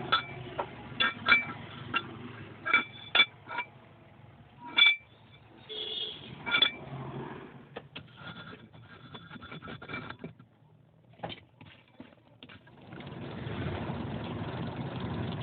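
Hammer blows on steel, a dozen or so irregular ringing metallic strikes. In the last couple of seconds they give way to a steady rushing noise.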